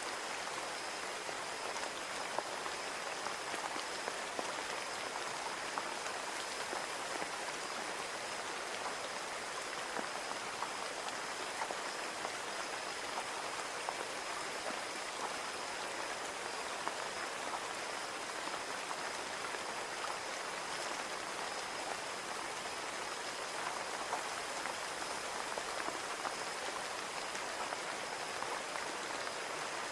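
Steady rain falling on a window: an even hiss of rain with many small, sharp drop ticks scattered through it.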